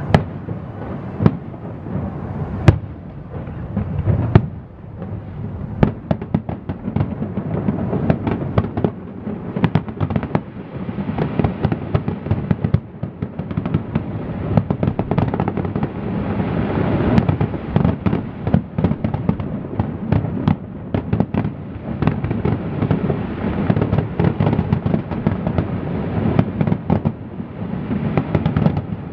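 Aerial fireworks shells bursting in a rapid string of booms and crackles over a low rumble. The bursts come thicker and almost without break from about ten seconds in.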